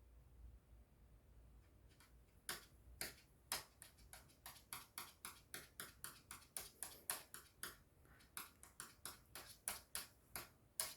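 A quiet series of sharp, irregular clicks, about two or three a second, starting about two seconds in. It is the unexplained clicking that startles the listener.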